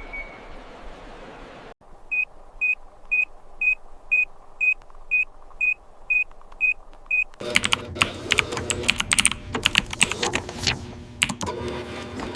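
A steady hiss with a faint high tone, cut off suddenly, then a high electronic beep repeating about twice a second, eleven times. From about 7 seconds in, a dense, fast clatter of clicks and rattles takes over.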